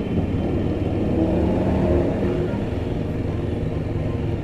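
Yezdi Adventure motorcycle's single-cylinder engine running steadily while the bike is ridden along the road.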